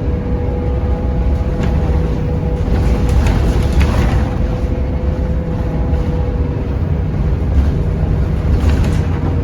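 Scania K230UB bus under way: its diesel engine runs with a steady low rumble and a steady whine, with light rattles now and then.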